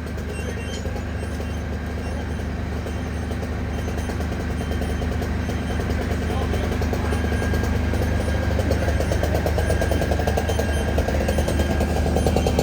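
Heavy diesel engine of a fire truck running with a steady low hum, growing louder toward the end with a fast, even pulsing.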